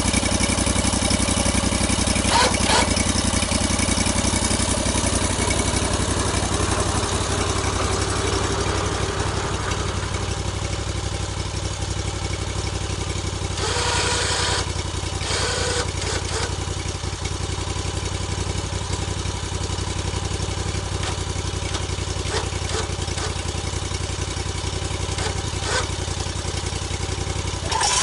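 An engine idling steadily, with a few brief noisy bursts over it, the longest about halfway through.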